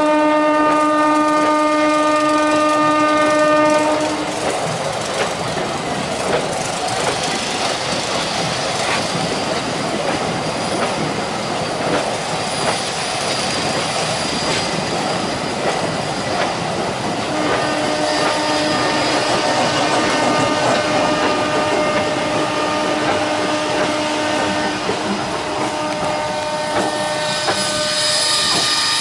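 MEMU passenger train passing close by, its wheels clattering and rumbling over the rail joints and points. A train horn sounds steadily for about the first four seconds, and a fainter horn sounds again from a little past halfway until near the end.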